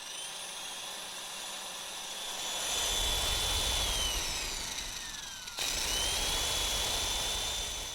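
High-pitched machine whine over a low rumble. The whine slides down in pitch for about a second and a half, cuts off abruptly a little past the middle, then rises again and holds steady.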